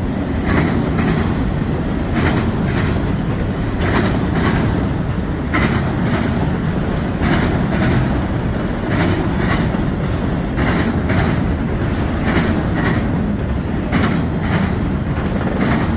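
Long freight train's empty autorack cars rolling past: a steady low rumble of steel wheels on rail, broken every second or two by clusters of sharp clickety-clack as wheel sets pass over rail joints.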